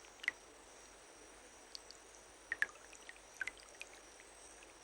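Faint water drops falling one at a time at irregular intervals over a soft steady hiss. The clearest drop comes about a third of a second in, with a small cluster of drops in the middle.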